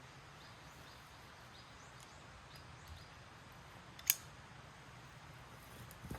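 Quiet outdoor ambience with faint, short, high chirps of small birds scattered through it, and a single sharp click about four seconds in.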